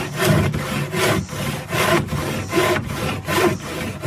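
Hand saw cutting through a piece of wood, back-and-forth strokes at about three a second.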